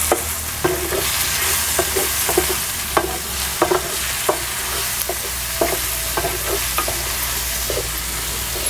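Onion, tomato and spice masala sizzling in oil in a frying pan, stirred with a wooden spatula that scrapes and taps against the pan about twice a second.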